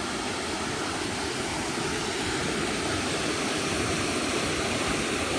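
River rapid: the steady rush of white water over rocks, growing slightly louder.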